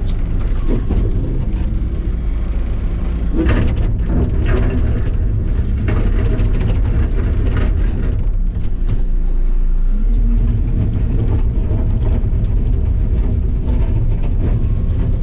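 Tractor engine running steadily under work, with bursts of rattling and scraping from track ballast stone being pushed by the loader bucket about three to eight seconds in.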